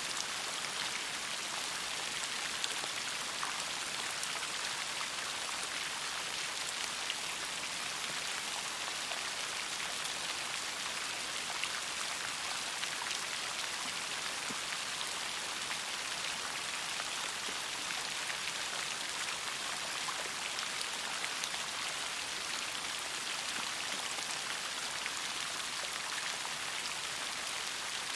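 Steady rainfall: an even hiss of rain with many small drop ticks on a surface.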